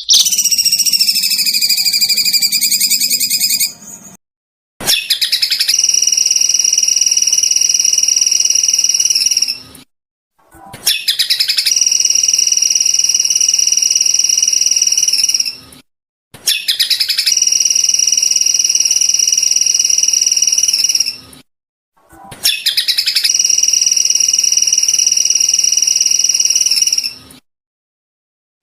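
Recorded songbird song played as a training track: a wavering, whistled phrase for about four seconds, then the same high, rapidly pulsing steady trill four times over, each about five seconds long and cut off abruptly, with short silences between.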